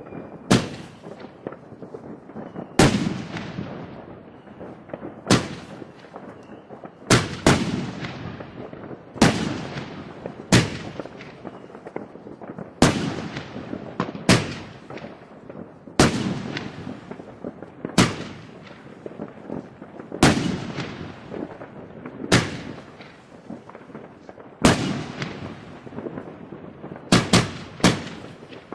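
New Year's fireworks going off: a loud bang every two seconds or so, each trailing off over a second, with a quick cluster of three or four bangs near the end.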